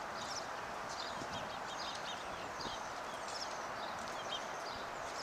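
Small birds chirping in short repeated bursts over a steady outdoor background noise.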